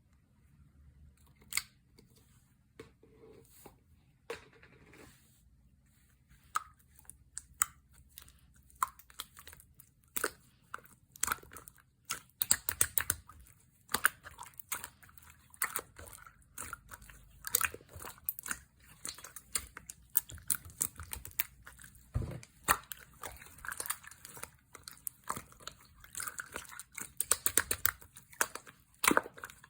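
Clear slime being squeezed and worked by hand, giving sticky clicks, crackles and pops. They are sparse at first and come thick and fast through the second half.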